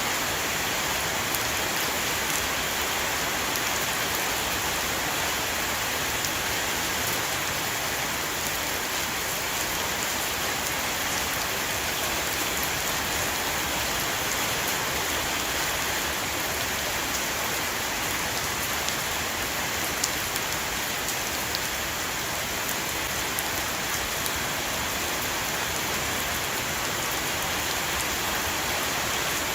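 Heavy rain falling steadily on a roof, an even hiss sprinkled with the small ticks of individual drops.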